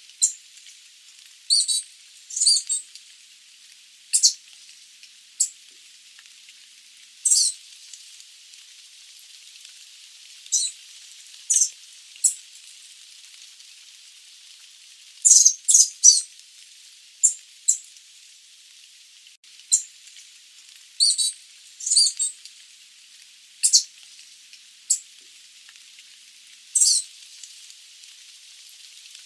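Sooty babbler (Stachyris herberti) calling: short high chirps, singly or in quick runs of two or three, every second or two, over a steady background hiss.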